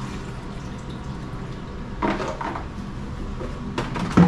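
Household objects being handled: a short clatter about two seconds in, then a few sharp clicks and a solid knock near the end, like a container or pot being set down.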